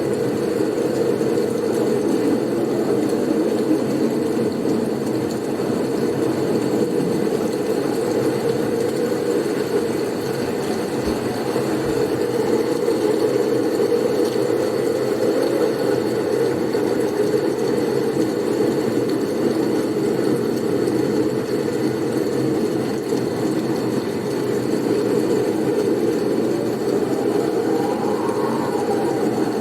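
Blizzard wind soundscape: a steady, dense low rush of wind noise, with a faint thin high tone above it.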